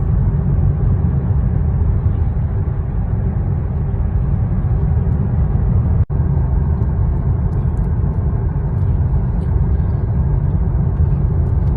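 Road noise inside a moving car's cabin: a steady low rumble, which cuts out for an instant about six seconds in.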